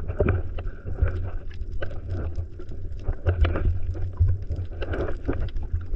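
Sea water sloshing and splashing around a camera at the water's surface, with a steady low rumble of water and wind on the microphone and irregular small splashes.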